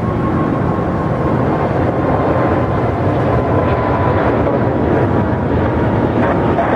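Jet airliner engines running, a steady rush of noise with a faint high whine held through it.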